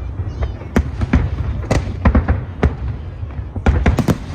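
Aerial fireworks going off: sharp bangs at irregular intervals, about one or two a second and bunching up near the end, over a continuous low rumble of further explosions.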